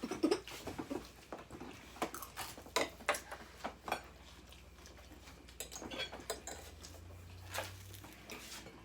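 Cutlery clinking and scraping against plates and bowls while eating: irregular light clicks scattered throughout, over a faint steady hum.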